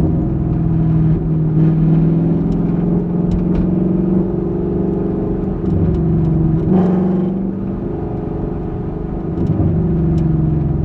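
2021 Ford Mustang GT's 5.0 L V8 exhaust, picked up from the trunk, running steadily while driving, with the engine note briefly rising about two-thirds of the way in and then easing off.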